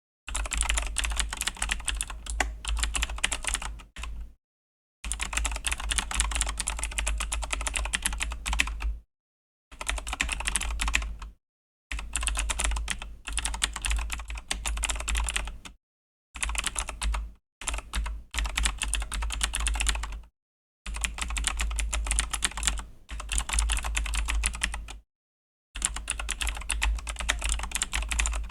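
Typing on a Razer BlackWidow V3 mechanical keyboard with Razer Green clicky switches: fast runs of sharp keystroke clicks, broken by short pauses every few seconds.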